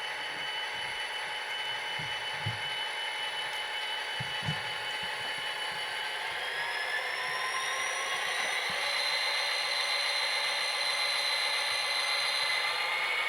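HO scale model locomotive's Tsunami sound decoder playing an EMD 645 diesel engine through its small speaker, mixed with the whine of the model's motor and gears. About six seconds in, the pitch rises over a few seconds and then holds higher as the engine sound revs up.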